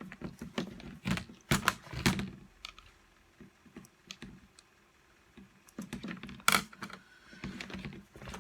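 Small sharp clicks and knocks of parts being handled during reassembly of a reciprocating saw: a flurry of taps in the first two seconds, a quiet stretch, then another cluster of clicks with one sharp knock after the halfway point.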